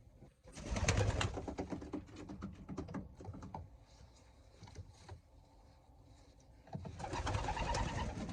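Racing pigeons in a loft cooing, with two loud bursts of rustling and clattering, about a second in and near the end.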